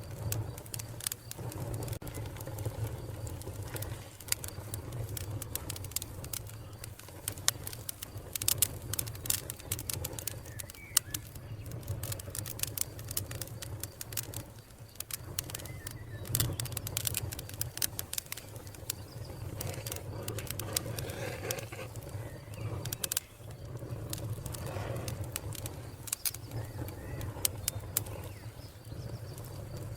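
Wood fire crackling, with scattered sharp pops over a steady low rumble, while a dove coos in the background.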